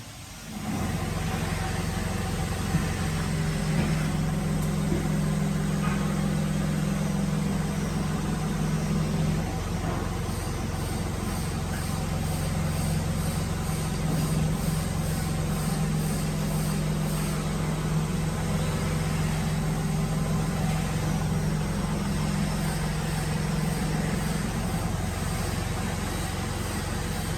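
Woodworking machinery running with a steady low motor hum that starts abruptly about a second in.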